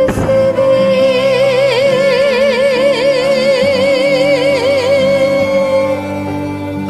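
A woman singing one long held note with wide, even vibrato over a karaoke backing track, opening with a crash; the note fades out about five and a half seconds in while the accompaniment carries on.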